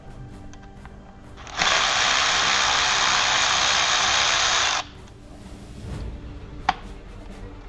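A power tool runs steadily for about three seconds, starting about one and a half seconds in and stopping suddenly. Background music plays under it.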